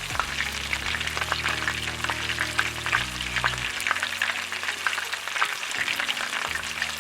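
Flour-dredged chicken breast pieces shallow-frying in hot oil in a frying pan, with a steady sizzle full of fine crackles and pops.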